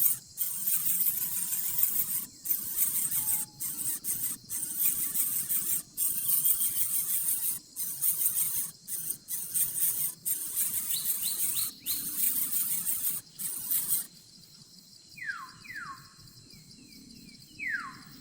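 Nestling birds begging with a loud, hissy high-pitched squealing that breaks off and starts again every second or so, stopping about fourteen seconds in. A few short falling chirps follow near the end.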